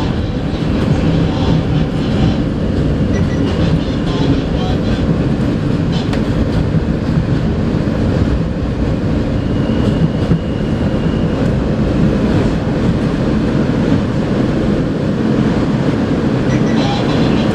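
Steady rumble heard inside an R160A New York subway car, with rail and car noise and no distinct clicks or bangs.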